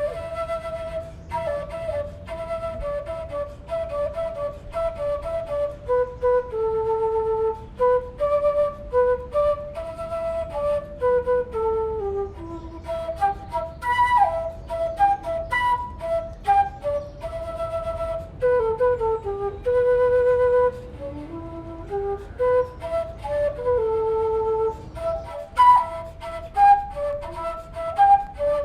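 Solo flute playing a lively melody, one line of quick running notes broken by a few short held tones.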